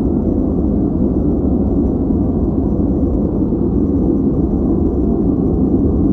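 Steady synthetic noise played as a focus background, heavy in the low end and lacking a high hiss, so it is a deep, even rush rather than a bright hiss.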